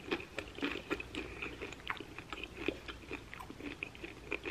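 Chewing and crunching tortilla chips loaded with creamy buffalo chicken dip: a run of short, irregular crisp crunches.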